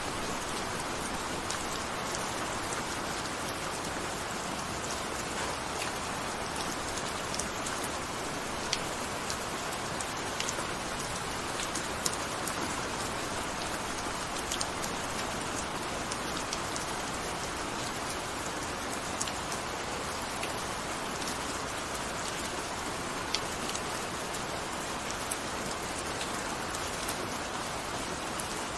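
Steady gentle rain falling, an even patter with scattered sharper ticks of single drops hitting a surface.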